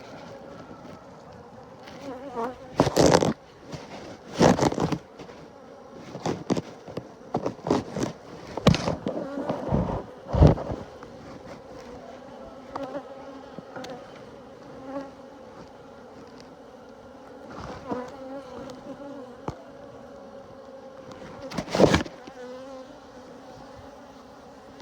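Honeybees buzzing around an open hive in a steady hum, heard from a phone in a bee-suit pocket. Several loud rustles and knocks, from the suit fabric and handling, cut across the hum.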